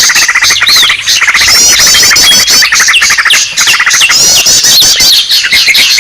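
Loud, dense mix of many small birds calling at once, the kind of layered recording played to lure small birds. It holds rapid strings of short chirps, quick higher sweeping notes and several short falling whistles, all overlapping without a break.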